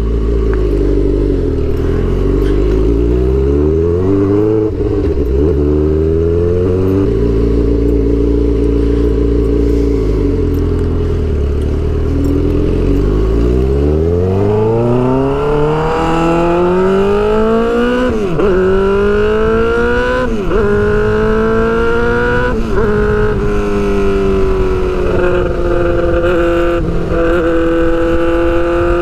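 Suzuki GSX-R600 inline-four sport bike engine with a straight-piped exhaust, heard while riding. It runs at low revs for the first half, the note sagging and recovering a couple of times, then about halfway through it revs up hard through the gears, with three quick upshifts, and settles into a steady cruise.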